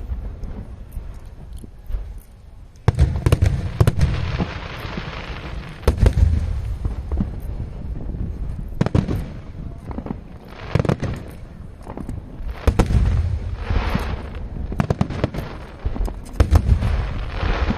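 Aerial firework shells bursting in quick succession: deep booms every two to three seconds, with sharp pops and patches of crackling between them.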